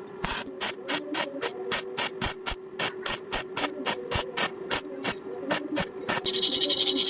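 Welding arc from an iBELL VORMIR 200-22 welding machine, struck in short bursts about three times a second, as in stitch or tack welding. About six seconds in it becomes a continuous crackling arc.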